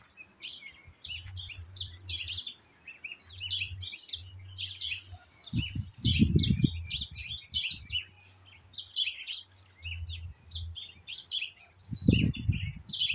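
Many small birds chirping and twittering busily without a break, in quick rising and falling notes. Twice, about six seconds in and again near the end, a louder low rumbling noise rises under the birdsong for about a second.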